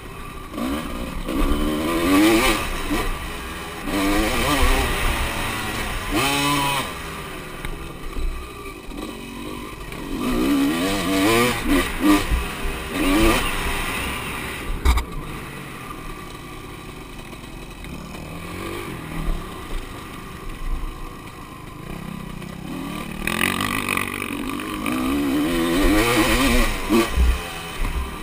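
Motocross bikes on a track, their engines revving up and falling away again and again as they ride by, louder in several bursts with a quieter stretch in the middle.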